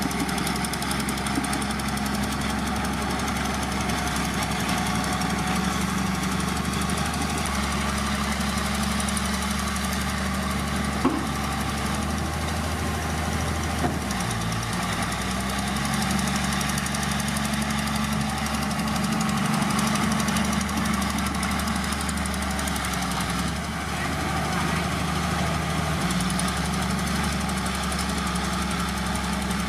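Heavy diesel engine of earthmoving machinery running steadily, its pitch shifting about halfway through, with one sharp click about eleven seconds in.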